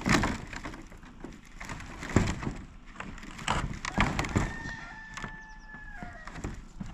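Scattered knocks and thuds of roof-repair work. About four seconds in, a rooster crows once: a long, held call that drops in pitch at its end.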